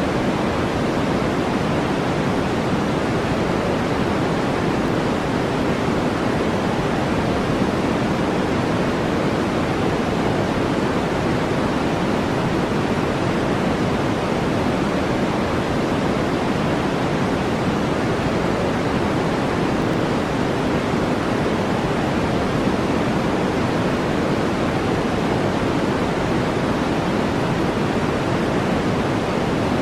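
A steady, unchanging brown-noise track: a deep, even hiss weighted to the low end, with no breaks or separate sounds.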